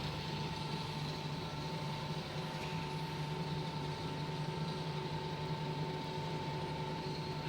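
Bode 5000 kg welding positioner's rotation drive running at a constant speed: a steady motor-and-gearbox hum with a thin, constant higher tone over it. The rotation gearbox has a slight issue, which the seller puts down to a broken foot plate on the gearbox.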